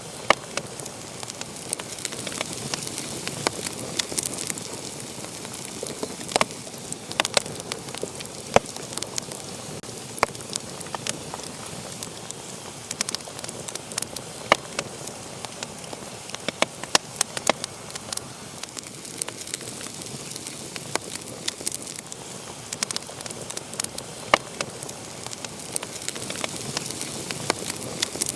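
Wood fire crackling and hissing steadily, with frequent sharp, irregular pops and snaps.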